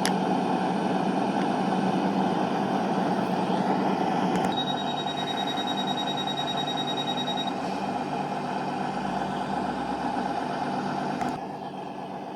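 CrossCountry Class 220 Voyager diesel multiple unit's engines running steadily with a low hum. A rapid, high electronic beeping sounds for about three seconds, starting about four seconds in. The engine noise drops about eleven seconds in.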